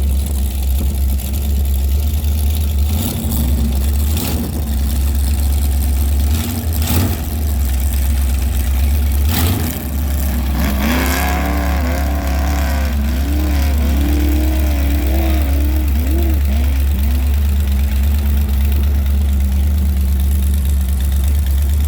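Power boat's V-drive inboard engine running under a steady deep rumble, revved up and down in a string of blips through the middle, then settling to a steady idle. A few sharp knocks come in the first half.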